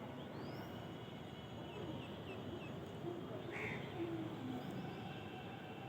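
Birds chirping and calling in short scattered notes over a steady low background hum of outdoor ambience.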